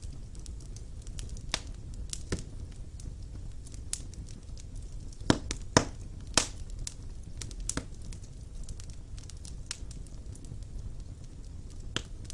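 Wood fire burning in a fireplace, crackling with irregular sharp pops over a low steady rumble. The loudest pops come close together about five to six and a half seconds in.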